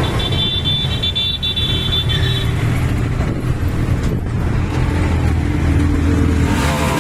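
Motor vehicle engines running steadily amid traffic noise, with a high-pitched steady tone over the first two and a half seconds.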